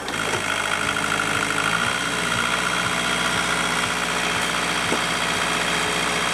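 Sailboat's inboard engine running steadily at raised revs, its note shifting slightly about two seconds in, with a light regular tick about twice a second.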